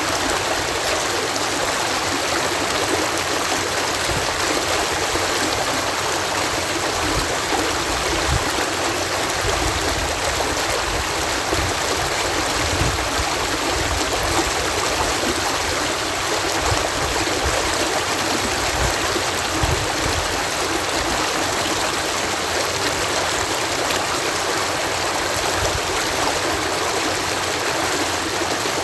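Water cascading through a canal lock, a steady rushing spill with low rumbling swells now and then.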